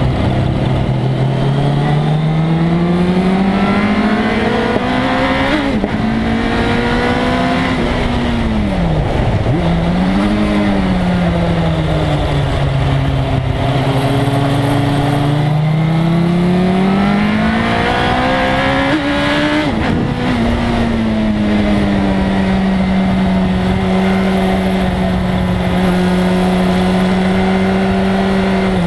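1997 Suzuki GSX-R1100's inline-four engine under hard riding: revs climb steadily and drop sharply twice, with a brief dip and short rise in between, then hold steady for the last eight seconds. A steady rushing noise runs under the engine throughout.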